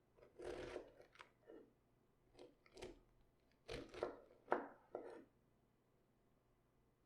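Raw cabbage crunching and tearing in a handful of short, irregular bursts, with one sharp crack about four and a half seconds in as the loudest moment.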